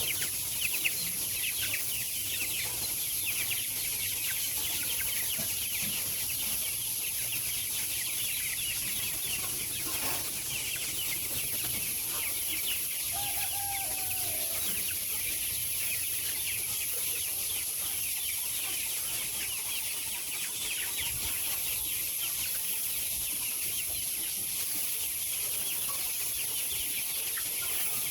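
A large flock of chickens in a poultry house, calling and clucking in a dense, continuous chorus of many short, high, overlapping calls, over a steady high hiss. A single lower call stands out about halfway through.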